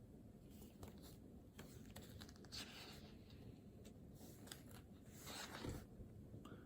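Faint scratching of a pen writing on paper, in two short stretches with a few small clicks, against a quiet room.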